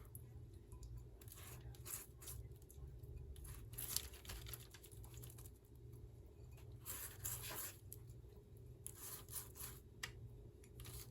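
Garlic butter being spread over the crust and hollowed inside of a loaf of French bread: faint, irregular scraping and rustling strokes against the crisp bread.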